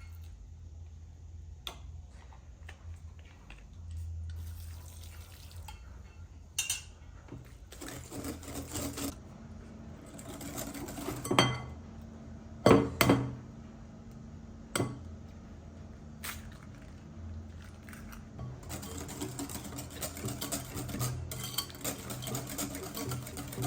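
Kitchen work: dishes and metal utensils clinking and knocking now and then, with some handling of liquid, over a steady low hum. The loudest knocks come near the middle, and a run of small rattles follows near the end.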